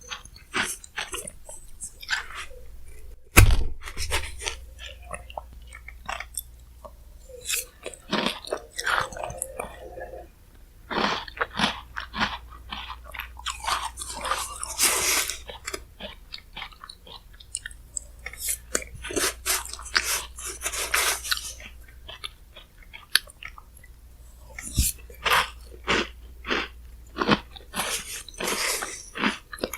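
Close-miked chewing and crunching of shaved-ice bingsu topped with chocolate chip cookies, many short crunches one after another. There is one loud thump about three seconds in.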